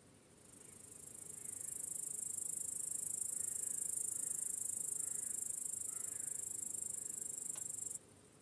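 Crickets trilling: a loud, very high, rapid trill swells in over the first two seconds, holds steady, then cuts off abruptly near the end, over a fainter chorus of crickets that carries on.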